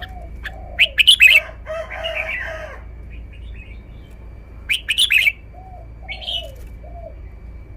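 Red-whiskered bulbul singing: two loud bursts of quick, sharp whistled phrases, about a second in and again about five seconds in, with softer lower calls of other birds between them.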